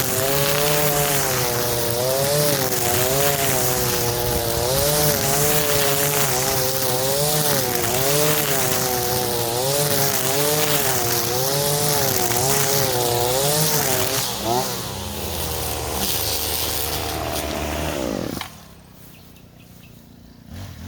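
Small high-revving engine of a grass-cutting tool running under load, its pitch rising and falling about once a second as it cuts. About fourteen seconds in it drops off, winds down with a falling pitch and stops.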